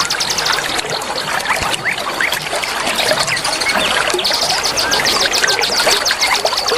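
Many songbirds chirping and calling together over the steady rush of running water. A fast, high trill of rapidly repeated notes runs at the start and comes back about four seconds in.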